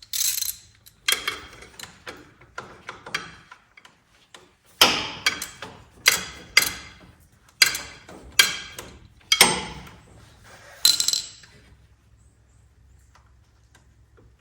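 Hand tools working on metal: about a dozen irregular sharp metallic clicks and clinks, each with a short ring, stopping a few seconds before the end.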